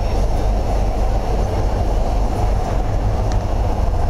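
Steady low rumble inside a suburban train carriage as the train runs, with a faint click about three seconds in.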